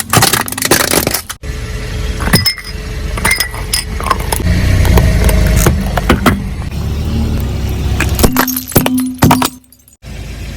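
Car tyre rolling over and crushing brittle objects: a run of sharp cracks, crunches and pops over the low rumble of the car.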